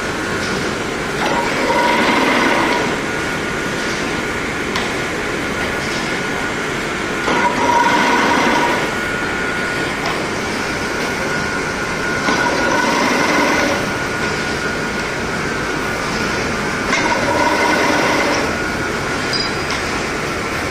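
Chain-link mesh weaving machine running, a steady mechanical clatter that swells into a louder whirring phase for about a second and a half roughly every five seconds, four times over, as it works through its forming cycle.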